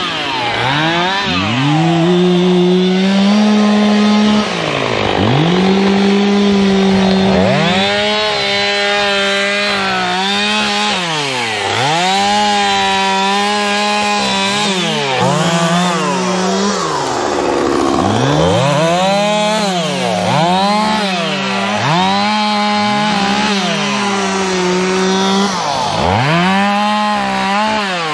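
Two-stroke chainsaw revved up to full throttle, held for a second or three and let back to idle, about nine times over, as in a run of cuts through wood.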